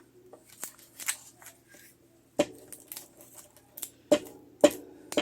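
Scissors snipping around a paper cutout: irregular short, sharp snips, faint at first and louder and sharper from about halfway through.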